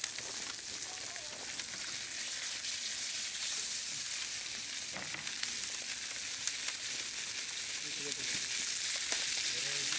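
Food frying in a hot pan: a steady sizzling hiss with a few scattered pops.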